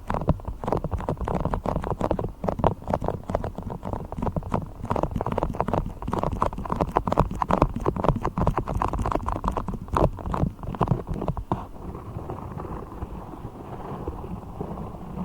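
Beeswax being squished and pressed close to the microphone: dense, rapid sticky crackling and clicking, easing off and getting softer near the end.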